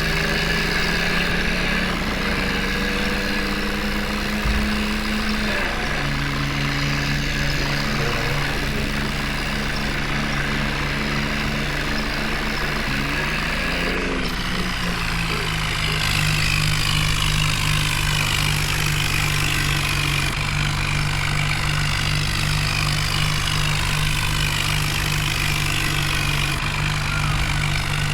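Heavy diesel vehicle engine running steadily, its revs shifting twice in the first half and then holding steady.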